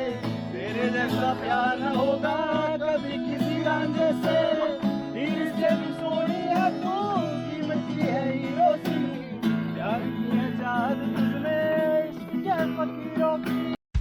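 A voice singing over strummed acoustic guitar. It cuts off suddenly near the end.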